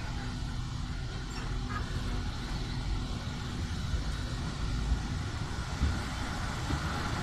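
Train running past on the line: a steady low rumble with no clear beat.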